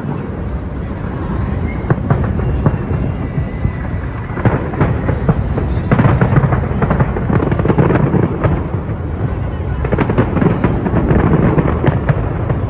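Fireworks display: many shells bursting in quick, irregular succession, sharp bangs and crackling over a low rumble, growing denser about four seconds in.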